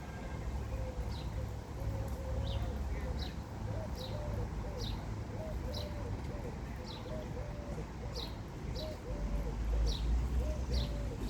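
Pigeons cooing in a low, wavering run of notes, with another bird giving a short high downward chirp about once a second, over a low rumble.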